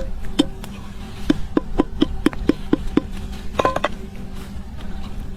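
A series of short, sharp knocks, about two to three a second, over a steady low hum.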